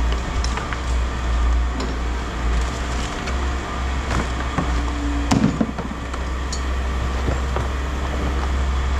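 Scattered knocks and clatter of scrap being handled and tossed, with one louder ringing clang about five seconds in, over a steady low rumble.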